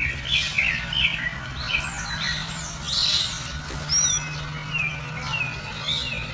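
Birds chirping: a steady run of short chirps and quick downward-sliding whistles, several a second, over a low steady hum.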